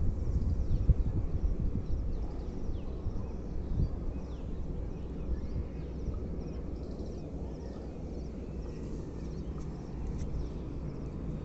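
Outdoor ambience: birds chirping faintly in short calls over a steady low rumble that is loudest in the first few seconds.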